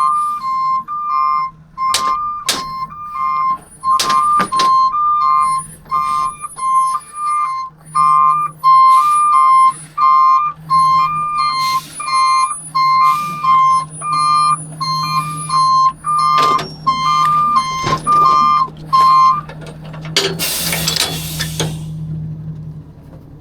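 Garbage truck's two-tone warning alarm beeping high and low in steady alternation over the truck's engine idling, with sharp metal bangs now and then; the alarm stops about 19 seconds in and is followed by a short loud hiss of air.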